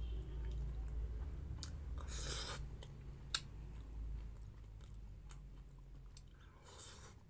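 A person chewing pork menudo and rice close to the microphone, with a low rumble, scattered short wet clicks of the mouth, and two brief noisy swishes, one about two seconds in and one near the end.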